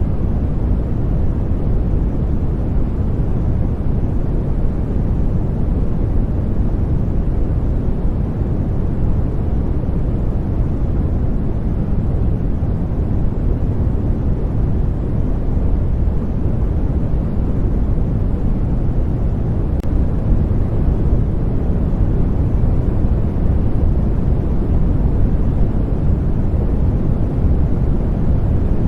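Continuous sleep-aid white noise: a steady, even hiss-and-rumble, deep and bass-heavy with little high end, unchanging throughout.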